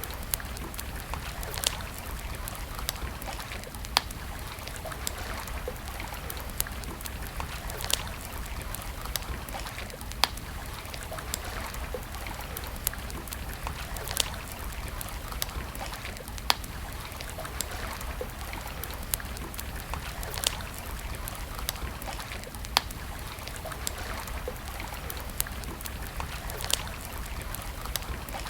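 Wood campfire crackling, with small crackles throughout and a sharp louder pop every few seconds, over the steady rush of a flowing stream.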